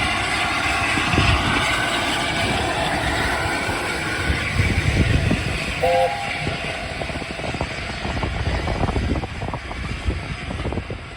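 LNER A4 Pacific steam locomotive 60007 and its train running by, a steady rumble and clatter that fades away over several seconds.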